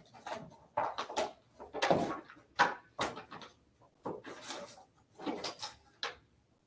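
Paper rustling and shuffling in short irregular bursts as bid documents are handled and leafed through, stopping about six seconds in.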